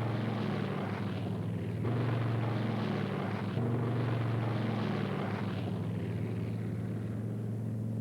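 Steady drone of propeller aircraft piston engines, with a rushing noise that swells and fades twice as if aircraft pass, and a couple of abrupt jumps in the sound.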